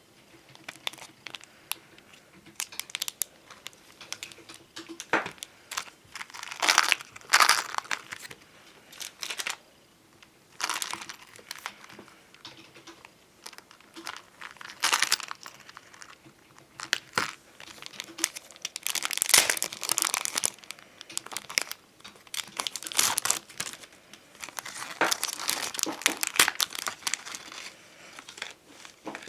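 Glossy bonbon drop and ohajiki stickers being handled: plastic sticker sheets crinkling and stickers peeling, in irregular bursts with short pauses and small clicks between them.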